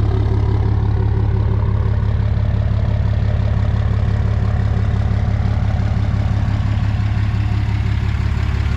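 Cummins straight-six turbo diesel idling steadily through an exhaust with its emissions equipment missing. It is a loud, even, deep rumble with no revving.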